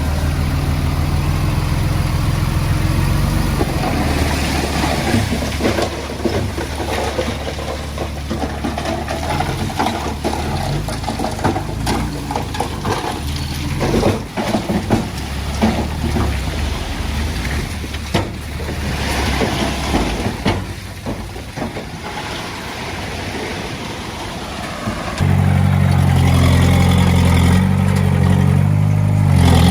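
Heavy-equipment diesel engine running, with clanking and scraping of metal and earth through the middle. About 25 seconds in the engine rises to a louder, heavier pitch, as under load.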